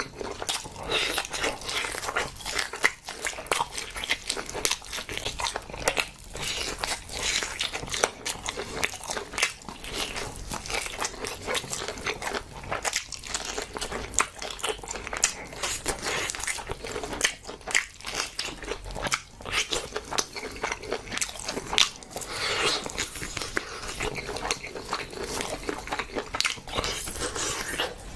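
A person eating close to the microphone, a meal of braised pig's trotters and spicy mixed noodles: continuous chewing and biting with many quick, irregular wet clicks and smacks.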